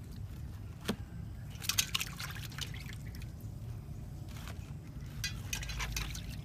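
Water trickling and splashing in short irregular bursts, with a steady low hum underneath.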